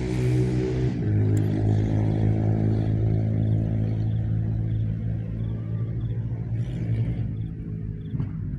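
A motor vehicle's engine running steadily, its pitch dropping slightly about a second in and fading toward the end.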